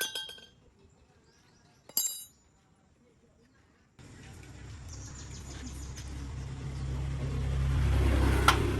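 Two sharp metal clinks with a brief ring, about two seconds apart, like steel tools striking metal. Then, from a sudden change midway, a low engine hum grows louder, with one sharp click near the end.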